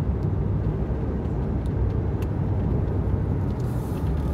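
Steady low rumble inside a pickup's cab cruising at about 40 mph: mostly road noise from all-terrain tires, with the Walker Quiet Flow-muffled exhaust barely heard.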